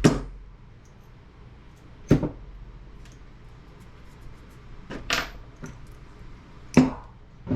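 Scrap parts from a dismantled CRT monitor being set down and sorted on a workbench: four separate knocks and clatters about two seconds apart, with small ticks of handling between them.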